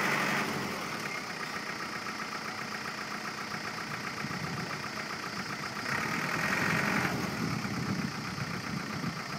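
Truck engine running steadily at a low speed, growing louder for about a second roughly six seconds in.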